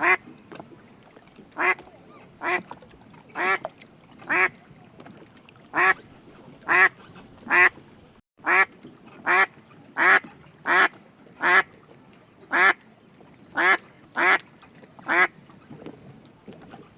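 A duck quacking repeatedly: about seventeen short, separate quacks at an uneven pace of roughly one a second.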